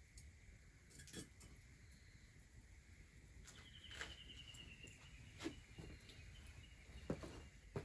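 Faint scattered clicks and knocks, about five over several seconds, with a brief faint high chirping about three and a half seconds in.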